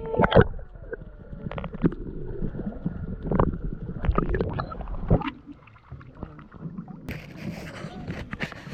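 Water sloshing and slapping against a small boat's hull, with several separate knocks and splashes in the first five seconds; a hissing rush of water or spray starts about seven seconds in.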